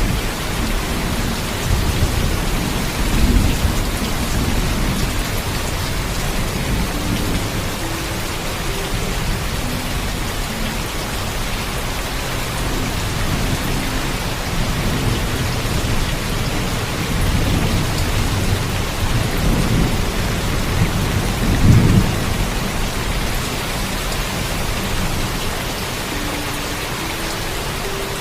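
Steady heavy rain with thunder rumbling low underneath. The rumbles swell several times, and the loudest comes about three-quarters of the way through.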